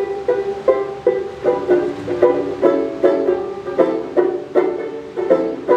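Ukulele strumming chords in a steady, even rhythm, about two and a half strums a second, as the instrumental introduction to the song.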